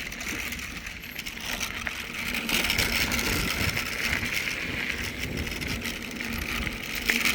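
Mountain bike rolling along a trail: steady tyre noise and wind rush on a handheld phone's microphone, growing louder about two and a half seconds in.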